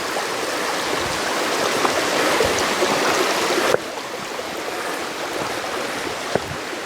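Mountain stream rushing and splashing over rocks, a steady hiss of running water that drops suddenly in level about four seconds in; a single light knock near the end.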